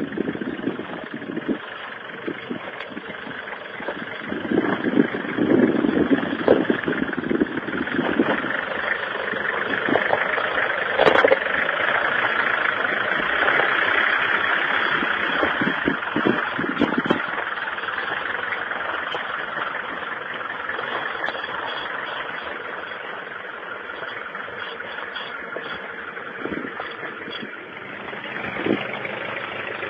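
Nissan 4x4 SUV engine running at low speed as the vehicle crawls over a rough dirt track, growing louder as it passes close by midway and easing off afterward.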